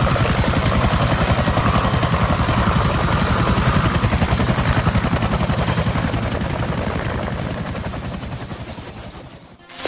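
Helicopter rotor chopping in a fast, even pulse, fading away over the last two seconds.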